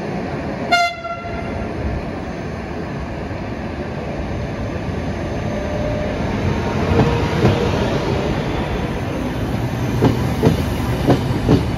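A short, high train horn toot about a second in, then an electric train coming through the station, its noise growing and its wheels knocking over rail joints several times near the end.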